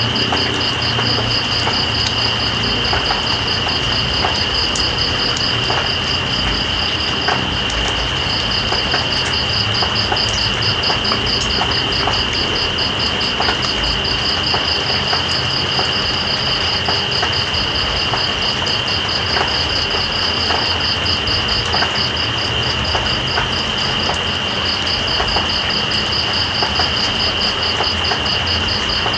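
Night insects calling: a steady high trill with a faster pulsing chirp above it, which pauses briefly about seven seconds in. Under them a steady hiss of rain with scattered faint drop ticks.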